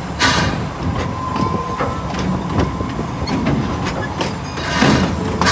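Steam-powered amusement park train running with passengers aboard: a steady rumble of the coaches with wheel clicks on the rail joints, and a louder hissing surge just after the start and another about five seconds in.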